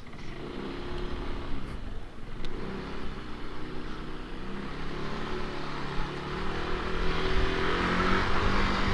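Yamaha NMAX scooter's single-cylinder engine running under way, its pitch wavering, heard through a microphone inside a full-face flip-up helmet. A wind rush grows louder over the last few seconds; the rider puts such helmet wind noise down to an air leak on the helmet's right side from old seals.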